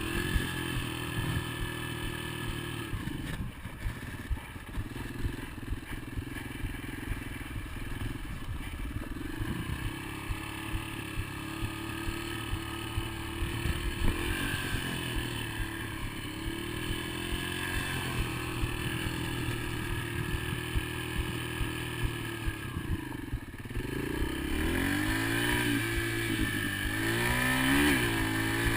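Dirt bike engine running while being ridden, its pitch rising and falling as the throttle opens and closes, with frequent rattling clicks over it. Near the end it revs harder, the pitch sweeping up and down quickly.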